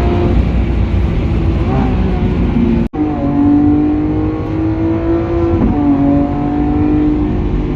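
Lamborghini Aventador SVJ's V12 running through a Balboni aftermarket exhaust. The engine holds a steady note that slowly falls in pitch, dips briefly near six seconds as if through a gear change, and drops out for an instant about three seconds in.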